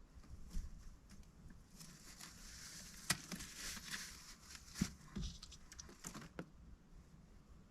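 Mallard duck moving about indoors: a soft rustling for a few seconds, broken by a few sharp taps.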